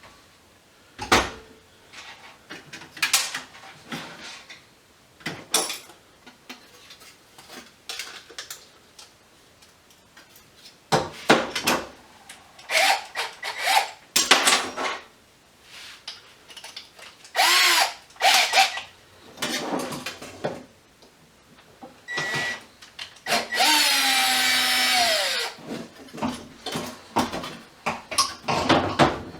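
Power drill run in short bursts with a Phillips bit, backing out screws, its whine dropping in pitch as it slows at the end of one longer run about three-quarters of the way in. Knocks and rattles of metal parts come between the bursts.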